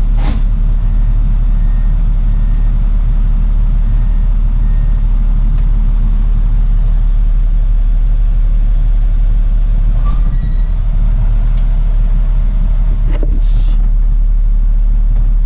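Truck diesel engine running steadily with a deep, even rumble. A few short knocks come near the start and about ten seconds in, and a brief hiss follows about three and a half seconds later.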